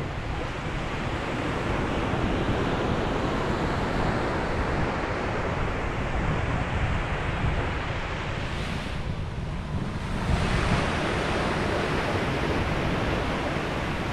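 Ocean surf washing onto a beach: a continuous rush of breaking waves with wind buffeting the microphone. The wash eases briefly about nine seconds in, then a fresh wave breaks just after ten seconds.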